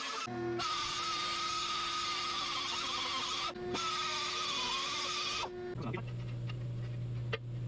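Shop machinery at work fitting a suspension bushing: a steady hiss with a high, wavering squeal that breaks off briefly about three and a half seconds in, then stops. A steady low hum with a few clicks follows.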